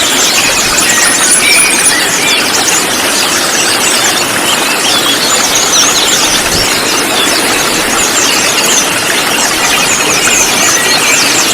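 A flock of sunbirds (konin) calling together: many overlapping rapid, high-pitched chirps and short trills, over a steady hiss.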